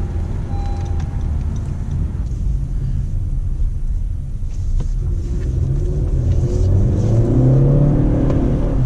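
2016 Honda Civic's 1.5-litre turbocharged four-cylinder under hard acceleration, heard from inside the cabin: a low engine rumble that eases off a couple of seconds in, then climbs steadily in pitch and loudness as the engine revs up through a pull.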